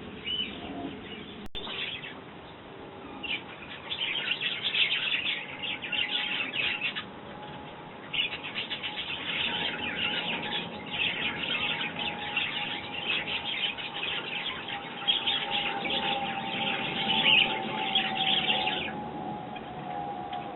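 Sparrows chirping rapidly and continuously at a feeder, in two long spells with a short break about 7 seconds in, over a faint steady hum.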